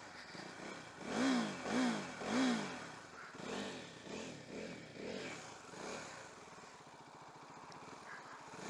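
KTM 390 Duke's single-cylinder engine revved in short throttle blips, each rising and falling in pitch. Three strong blips come about a second in, and weaker ones follow for a few seconds before it settles.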